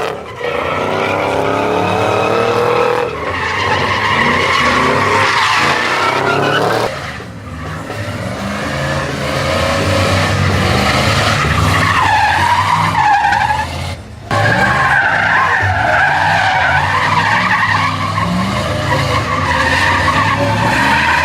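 Truck engines revving hard with tyres squealing and skidding during burnouts and donuts. The sound breaks off abruptly about 7 and 14 seconds in.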